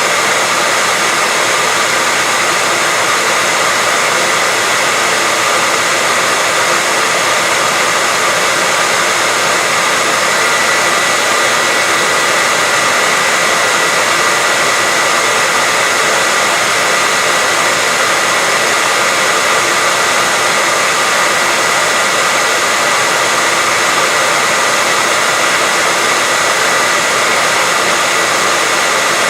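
Continuous white noise: a steady, even hiss that is strong in the upper range and thin in the bass, with a faint high whistle held steadily within it. It does not change at all.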